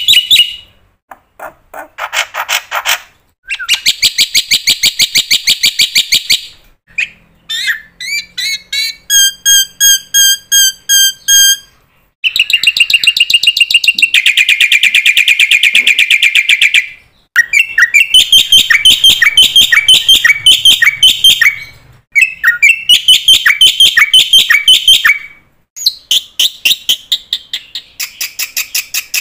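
A songbird singing a long run of rapid trills and varied repeated phrases, with short pauses between the phrases.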